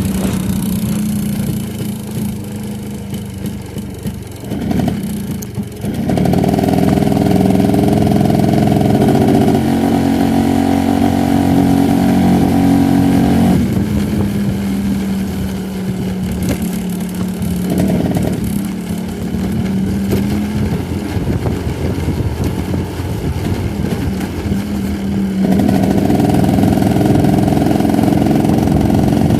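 Motor vehicle engine running under way on a road test after a repair. Its note steps up and grows louder about six seconds in, drops back to a lower steady note after about thirteen seconds, and climbs again near the end.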